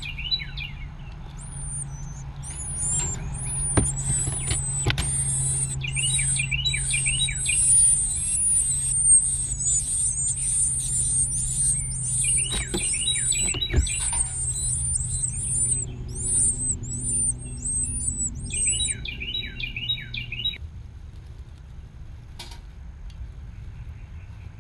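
Baby birds' high-pitched begging chirps in a rapid, continuous run that stops about twenty seconds in, with lower chirps mixed in now and then. A steady low hum sits beneath, with a few sharp knocks.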